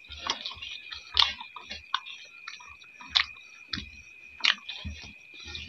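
Close-up chewing and mouth noises of people eating rice and mushroom gravy by hand, with a few sharp clicks about a second or more apart. A steady high-pitched drone runs underneath.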